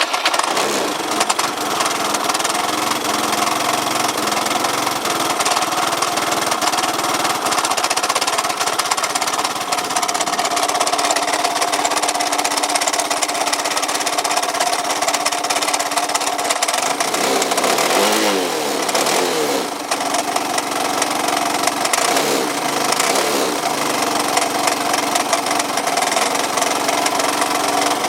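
Yamaha Cygnus 125X scooter's fuel-injected single-cylinder engine running just after starting, with an abnormal noise from the engine; its pitch rises and falls twice in the second half. The owner suspects a broken drive belt, as the engine's power no longer reaches the rear wheel.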